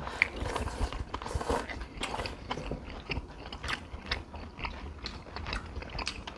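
Close-miked eating sounds: chewing and wet mouth smacks as bulgogi and rice cakes are eaten, a string of short irregular clicks and smacks.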